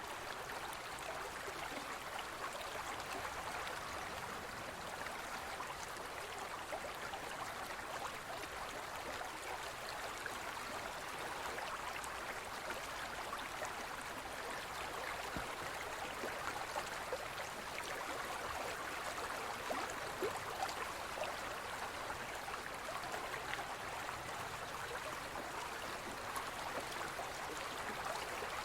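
Forest river flowing: a steady rushing and splashing of water over rocks, with small gurgles throughout.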